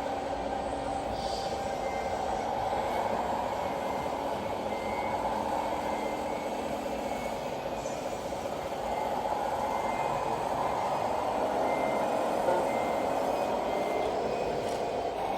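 Scale RC truck running, its steady drive noise under a reversing beeper that sounds short high beeps about once or twice a second while the truck backs up.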